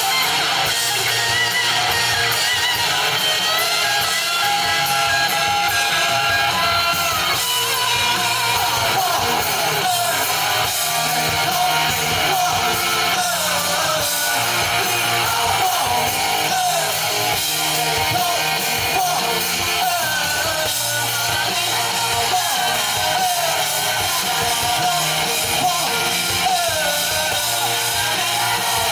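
Live rock band playing, with electric guitar to the fore and a voice singing over it.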